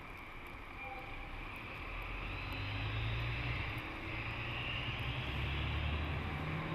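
Electric multiple-unit local train pulling out of the station, its traction motors humming and the running rumble growing louder as it gathers speed; near the end the motor hum rises in pitch.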